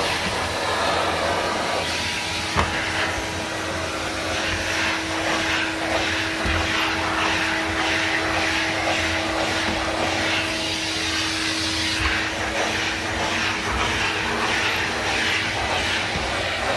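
Numatic NV250 tub vacuum cleaner running steadily while vacuuming, a continuous rush of air with a steady hum under it. A single knock about two and a half seconds in.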